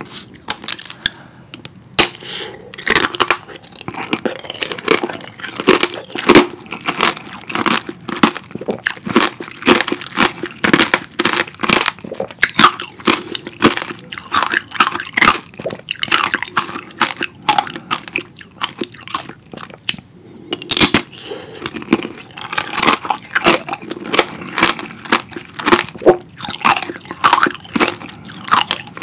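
Close-miked biting and chewing of strawberry tanghulu, in quick irregular crunches: the hardened sugar coating cracking between the teeth around fresh strawberries.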